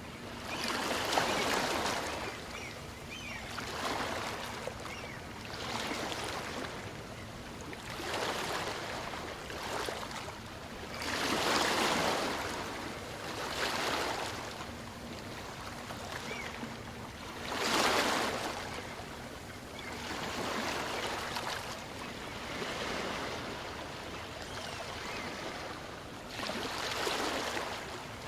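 Small waves from a calm sea breaking and washing up on a beach, each wash swelling and fading every two to three seconds.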